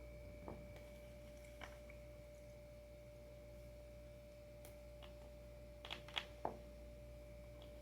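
Faint clicks and taps of a hand tool working on skateboard hardware, one about half a second in, another a second later, and three close together near the end, over a steady faint high-pitched hum.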